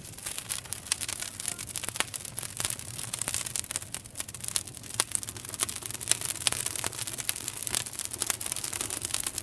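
Campfire burning with constant crackling and frequent sharp pops of burning wood.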